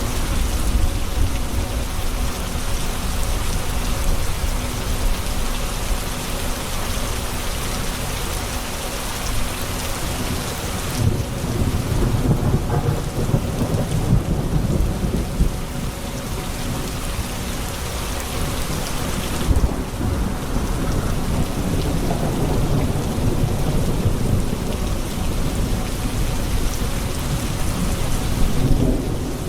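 Steady rain with thunder rumbling low in the background, the rumble swelling about twelve seconds in and again after about twenty seconds.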